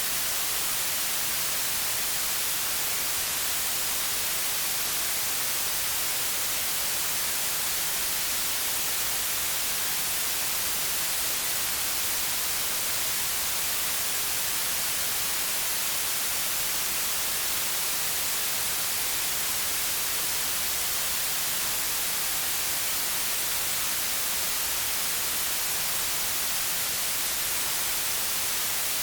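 Steady white noise: a constant, even hiss, brightest in the high frequencies, with no changes.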